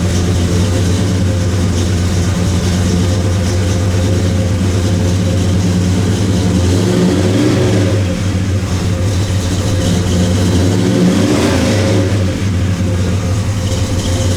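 Big-block 396 V8 of a 1965 Chevrolet Chevelle with Flowmaster dual exhaust, idling just after start-up and revved briefly twice, about seven and eleven seconds in.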